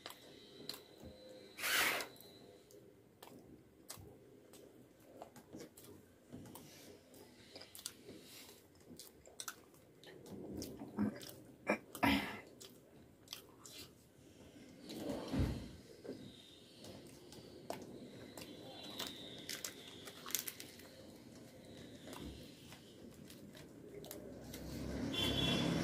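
Close-up chewing of puri and fried potatoes: many small wet mouth clicks and smacks, with a few louder bites about 2, 12 and 15 seconds in.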